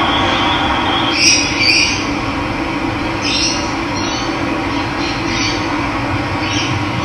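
Steady rush of running water, with a bird giving short high calls about six times over it.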